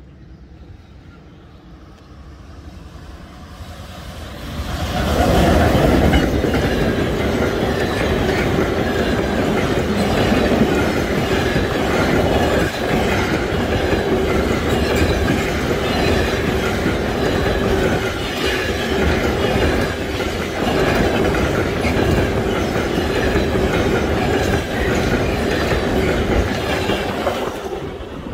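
Freight train of empty car-transporter wagons passing close by on the main line. It builds over the first few seconds, then the wheels keep up a loud, steady clatter over the rails for about twenty seconds, falling away as the last wagon goes by near the end.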